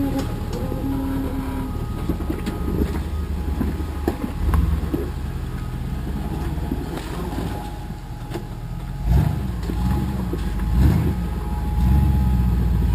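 Off-road rock crawler's engine running at low speed, with several short revs in the second half as it climbs over rock.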